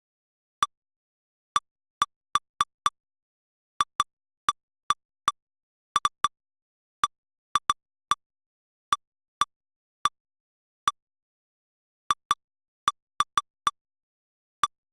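Short identical electronic blips from lightning-detector playback software, one per event, about thirty at irregular intervals with dead silence between them. Each blip is the same brief mid-pitched tick.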